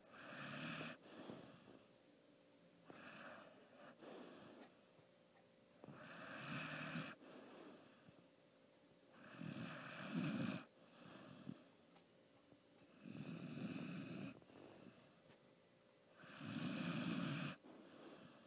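A sleeping dog snoring: a loud raspy snore about every three and a half seconds, each followed by a shorter, softer breath.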